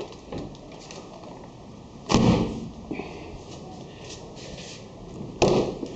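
Two short thuds about three seconds apart, a car door being opened and then shut.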